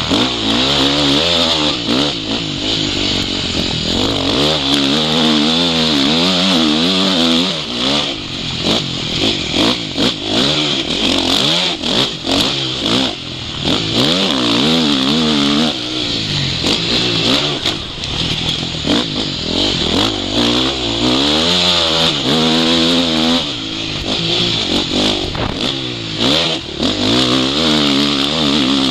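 Motocross bike engine, heard close from the rider's goggle camera, revving up and down over and over as the throttle is worked around the track, with a steady hiss and frequent brief knocks.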